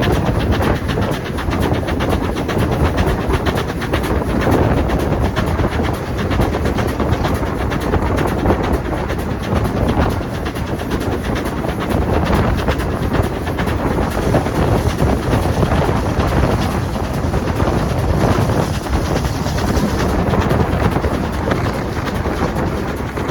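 A train running along the track: a steady, loud rumble and rattle of wheels on rail that carries on without a break.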